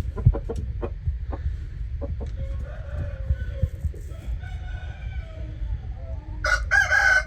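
Rooster crowing. A faint drawn-out crow runs through the middle, then a loud crow starts near the end, over a steady low rumble.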